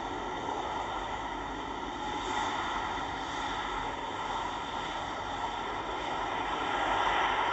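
Jet airliner engines: a steady rushing noise that grows louder near the end.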